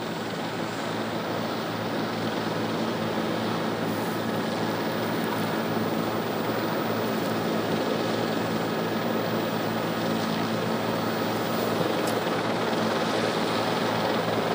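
Steady drone of a helicopter's engine and rotor: an even rushing noise over a low hum, slowly growing a little louder.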